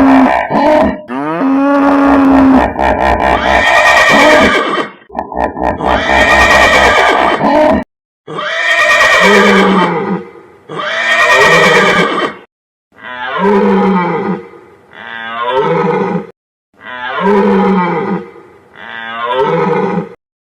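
A string of animal calls: a held moo-like call near the start, then a series of horse whinnies. The whinnies come as about seven separate calls of a second or two each, and the last four are shorter, falling in pitch.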